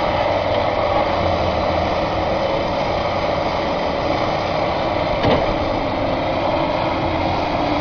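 Tractor or heavy-machinery engine running steadily, with one short knock about five seconds in.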